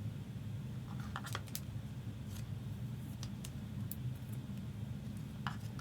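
Trading cards being handled, giving scattered faint clicks and rustles over a steady low hum.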